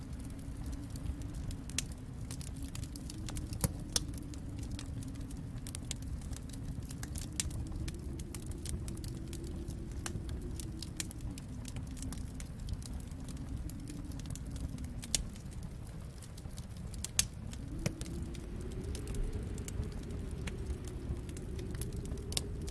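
Wood fire crackling, with frequent sharp pops, over a low steady rumble that swells and eases slowly, rising toward the end.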